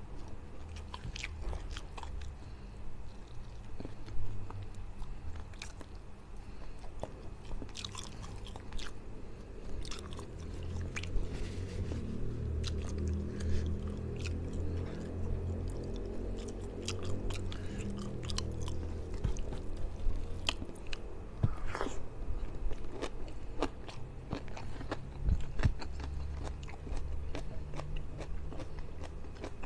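Close-miked chewing and wet mouth sounds of a man eating rice, fish in balado chili sauce and boiled water spinach by hand, with many short sharp clicks and smacks.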